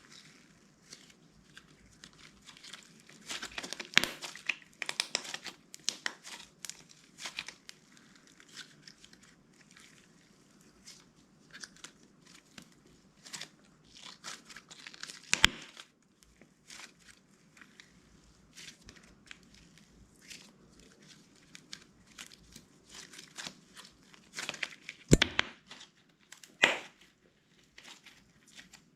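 Clear slime being stretched, folded and pressed by hand, giving irregular crackles, clicks and air-bubble pops, with a few louder sharp snaps.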